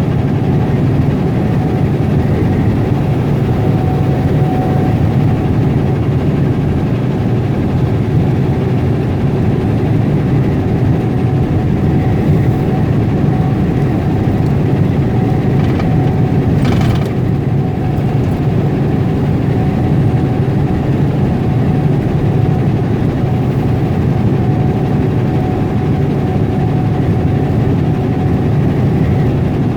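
Semi truck's diesel engine running steadily under way with road noise, a continuous low drone, with one short hiss a little past halfway.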